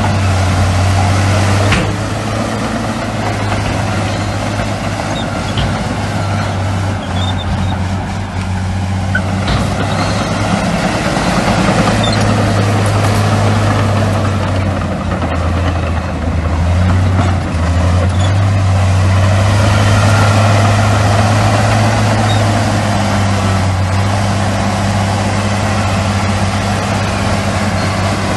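Heavy diesel engines of earthmoving machinery running steadily under load, with the engine note shifting slightly in pitch a few times.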